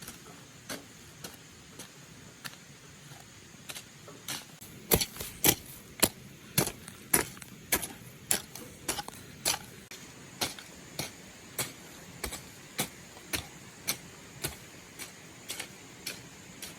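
A steady run of sharp knocks or taps, about two a second, loudest in the middle stretch and lighter at the start and end.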